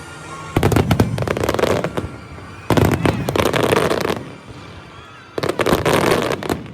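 Aerial fireworks going off in three rapid clusters of crackling bangs, each lasting about a second and a half, with short lulls between them.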